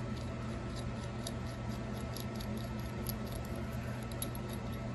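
Light scattered clicks and small scratchy handling noises over a steady low electrical hum.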